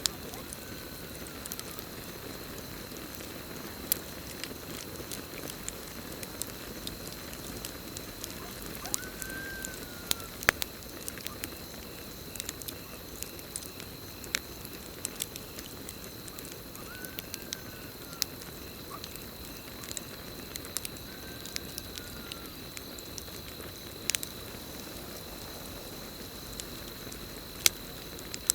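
Campfire crackling, with scattered sharp pops over a soft hiss, beneath a steady high cricket trill. A faint short call that rises and falls recurs about five times.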